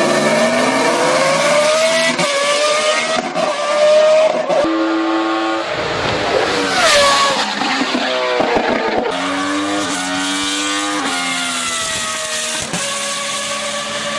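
Judd Formula 1 V8 in a BMW 134 hillclimb car revving hard: it climbs in pitch through quick upshifts, drops away about halfway through, then rises and falls again in several short bursts, like gearshifts and throttle blips between corners.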